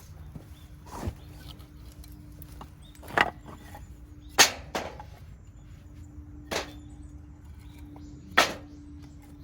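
A hatchet striking firewood: about six sharp, unevenly spaced chops, the loudest near the middle.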